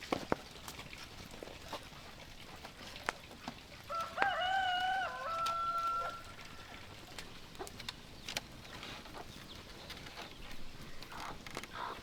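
A rooster crows once, a single drawn-out call of about two seconds starting about four seconds in. Scattered light clicks and knocks sound before and after it.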